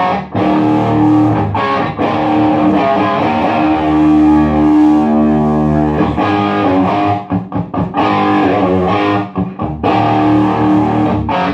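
Electric guitar strumming chords through a Marshall MG15 solid-state amp, its clean channel cranked into a 4x12 cabinet until it breaks up into a loud, pushed overdrive roar. The chords are struck several times and left to ring between strums.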